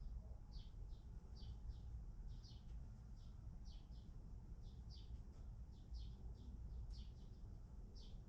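Faint, high, short chirps from small birds, each falling in pitch, repeating roughly twice a second over a steady low rumble.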